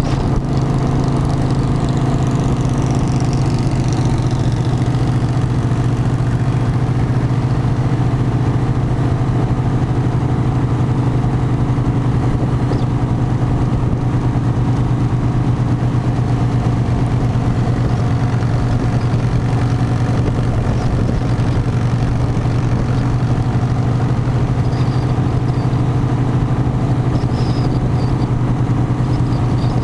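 Harley-Davidson motorcycle engine running at a steady, unchanging note with a strong low hum.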